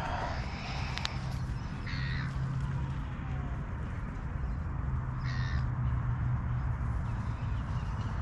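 A bird cawing twice, about two seconds in and again around five seconds in, over a steady low hum.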